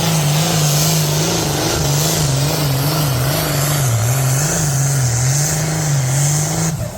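Pulling vehicle's engine running hard at high revs under load, its pitch wavering up and down about once a second, then stopping abruptly near the end.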